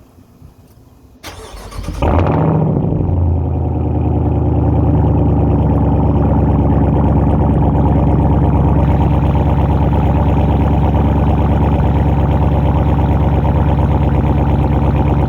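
2021 Dodge Durango SRT Hellcat's supercharged 6.2-litre V8 starting through an AWE Track Edition catback exhaust: the starter cranks about a second in, the engine catches with a brief flare in revs, then settles into a loud, steady idle.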